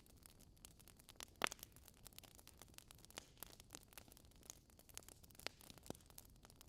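Wood fire in a fireplace crackling softly: irregular sharp pops and snaps from the burning logs, the loudest about a second and a half in, over a faint hiss.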